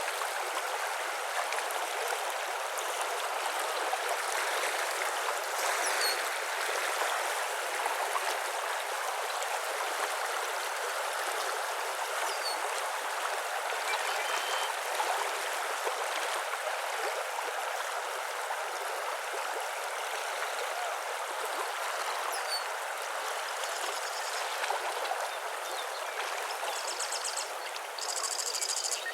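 Steady rushing of flowing water, like a stream, with a few faint bird chirps here and there and a short rapid trill near the end.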